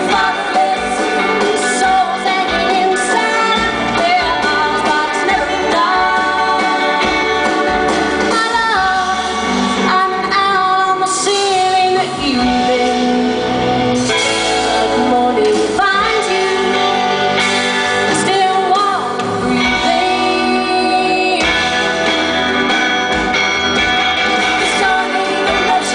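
Live rock band playing a song with a woman singing the lead vocal over it, held notes sliding between pitches.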